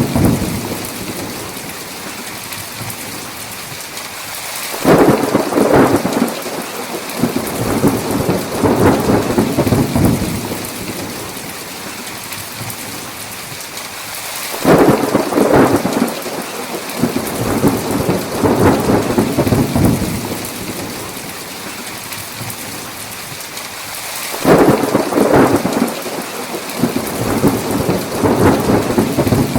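Steady heavy rain with thunder rolling in three times, about ten seconds apart, each roll rumbling and crackling for about five seconds before it fades back into the rain.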